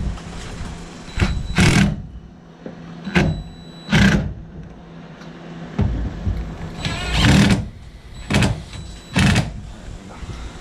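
A power driver run in about seven short bursts, tightening down the bolts of a fuel-tank sump plate one after another.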